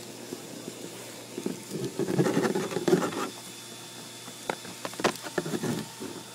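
Bee vacuum motor running with a steady hum, broken by an irregular burst of rattling about a second and a half in and a run of sharp clicks and knocks near the end.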